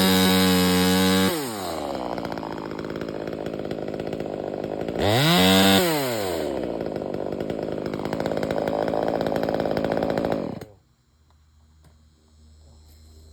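Two-stroke chainsaw engine revved high, dropping back, revved again briefly about five seconds in, then running on until it cuts out suddenly about ten seconds in.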